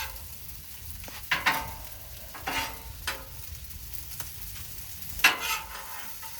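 Fried rice sizzling on a Blackstone steel flat-top griddle while a metal spatula scrapes and clacks across the cooking surface in several sharp strokes, the loudest about five seconds in.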